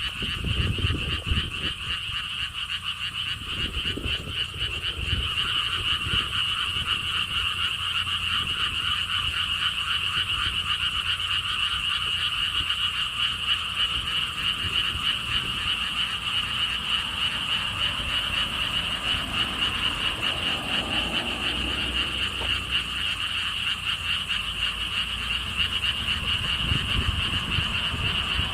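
A chorus of many frogs calling continuously from a pond, a dense fast-pulsing high-pitched trill that thickens about five seconds in. Gusts of wind rumble on the microphone near the start and again near the end.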